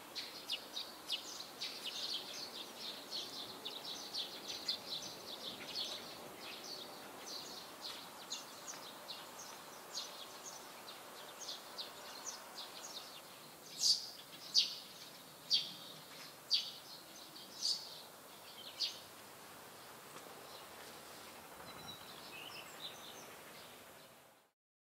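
Small wild birds chirping outdoors over a faint background hiss. The short, high chirps come quickly in the first half; then about six louder single chirps follow, each under a second apart, before the sound fades out near the end.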